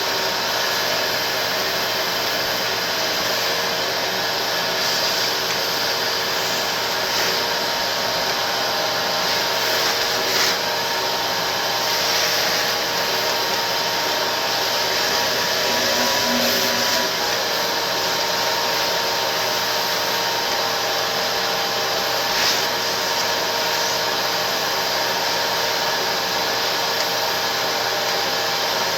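Steady whir of a running motor pushing air, with a constant hum and a couple of light clicks about ten and twenty-two seconds in.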